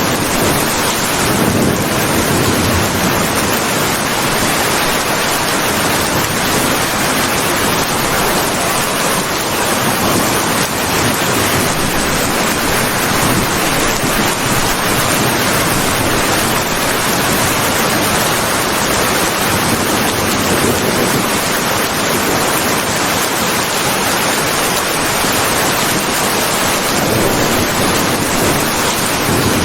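Steady heavy rain: a dense, even hiss of falling water that holds at one level.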